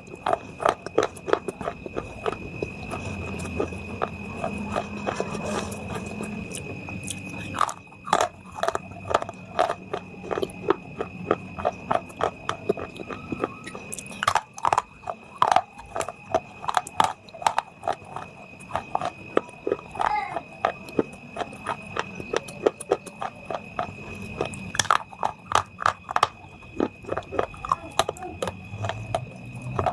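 Close-up biting and chewing of a hard, brittle mineral food of the kind eaten in clay ASMR videos, giving dense, irregular sharp crunches with softer grinding chews between them. A faint steady high whine runs underneath.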